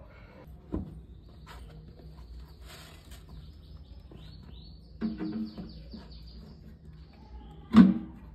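Small birds chirping, with a quick run of falling chirps about halfway through, over a steady low hum. A few short knocks, the loudest near the end.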